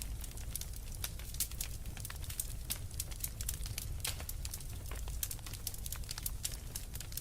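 Fireplace fire crackling: many small, irregular snaps and clicks over a low, steady rumble.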